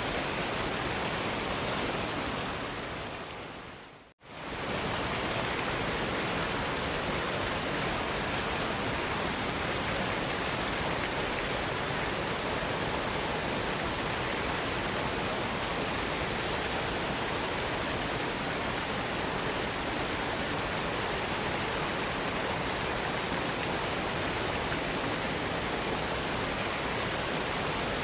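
Waterfall rushing, a steady, even roar of falling water. A little before four seconds in it fades quickly to silence and swells straight back, as at an edit between clips.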